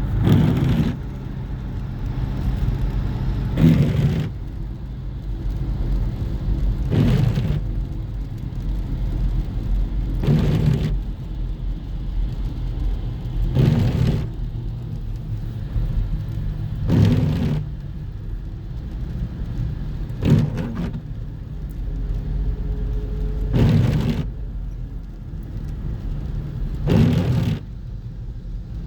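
Road noise of a moving car: a steady low engine and tyre rumble, with a short swishing sound that recurs regularly about every three seconds.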